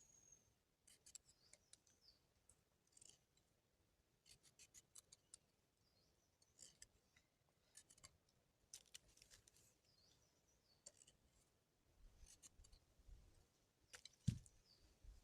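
Faint, sharp high clicks and ticks, some single and some in quick clusters, with one louder low thump near the end.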